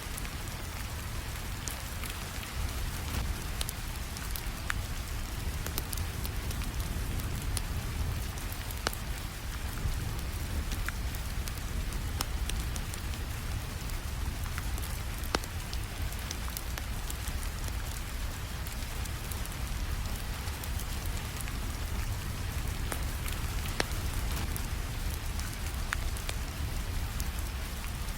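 Steady rainfall with a low rumble underneath, and a fireplace crackling: sharp pops and crackles come irregularly through the rain.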